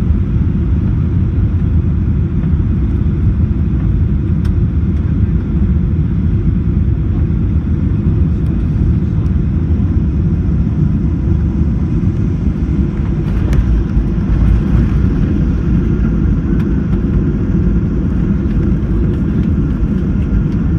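Steady cabin noise of a Ryanair airliner during landing, a loud low rumble of engines and airflow, briefly rising with some rattling about two-thirds of the way through.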